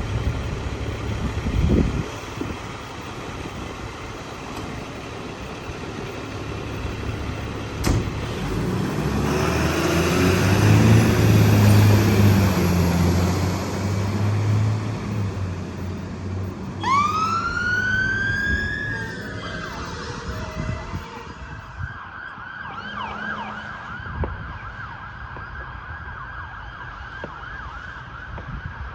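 A heavy vehicle's engine passes close by, loudest about ten to twelve seconds in, with a sharp crack just before. Then an emergency vehicle's siren starts with a rising wail and switches to a fast yelp that keeps going.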